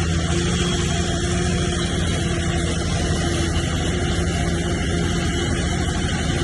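Diesel engine of a heavy earthmoving machine, a bulldozer or dump truck, running steadily under even load with no change in pitch.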